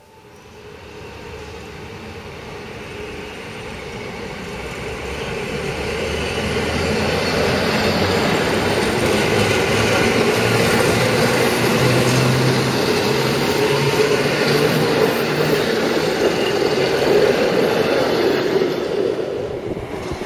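Electric multiple unit running past close by on the station track: a steady rail rumble that builds over the first several seconds, holds loud, then drops off near the end.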